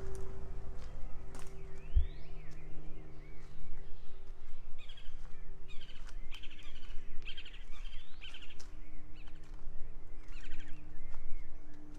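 Songbirds chirping and trilling in short repeated phrases, over a low steady hum.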